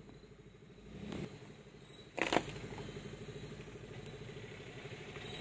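Car engine idling with a steady, even low pulsing, and a short loud noise about two seconds in.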